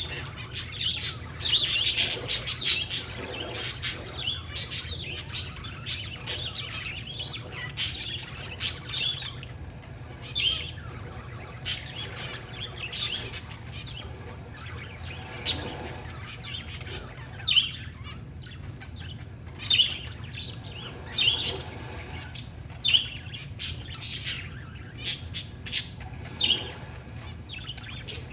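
Pet parakeets and zebra finches chirping, a busy run of short, sharp chirps and the odd squawk, thickest in the first few seconds.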